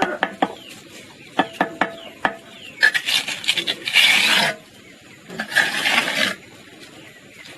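A series of sharp clicks and knocks, then two long rasping strokes, like a tool scraping or rubbing a hard surface.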